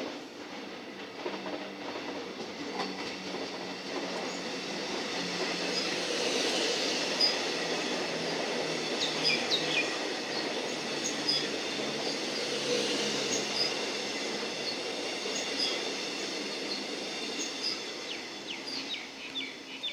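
Suburban electric passenger train passing at close range. It grows louder over the first few seconds, is loudest in the middle and eases off toward the end. Short, high wheel squeals chirp repeatedly while it is loudest.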